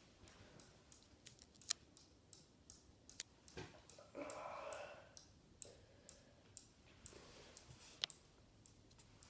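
Casablanca Lady Delta ceiling fan running quietly, with light, regular clicks about two to three a second.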